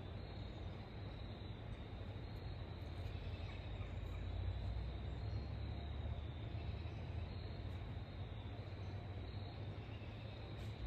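Steady outdoor background noise: a low rumble with a faint, steady, high insect drone over it.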